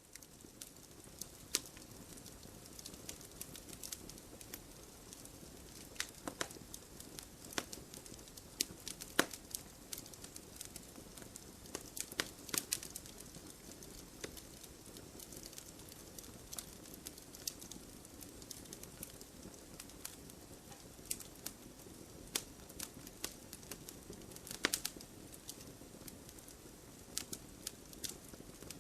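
Firewood burning, with a steady low hiss and irregular sharp crackles and pops. A handful of louder pops stand out, around a third of the way in, near the middle and about five-sixths of the way through.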